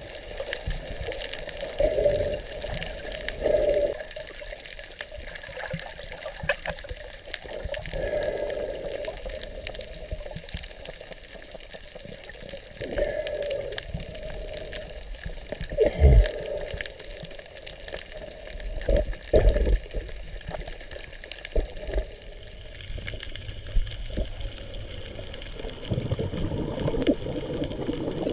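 Water sloshing and splashing unevenly, with a few heavier low thumps about two-thirds of the way through.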